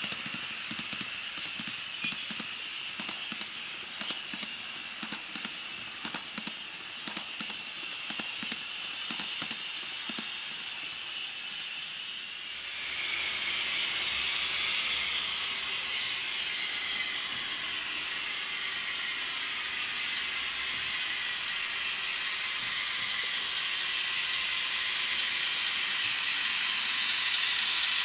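Electric-locomotive sound from the ESU LokSound decoder in an HO-scale EF210 model: a hiss with many irregular clicks, which about thirteen seconds in turns into a louder steady hiss with faint tones gliding in pitch.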